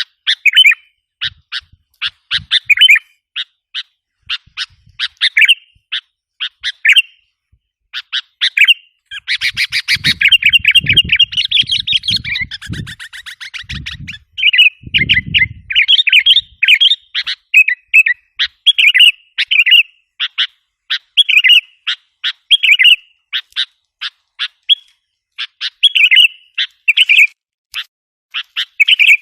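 Sooty-headed bulbul lure calls: a long run of short, sharp chirps repeated every half second or so, with a stretch of fast, dense chattering about a third of the way in.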